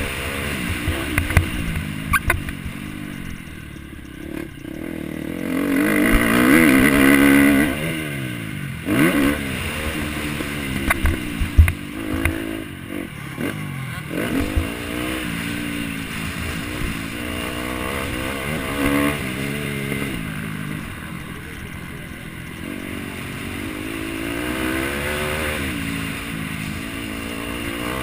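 MX1 motocross bike engine racing over the track, the revs rising and falling again and again as it accelerates and shifts, with scattered knocks and clatter.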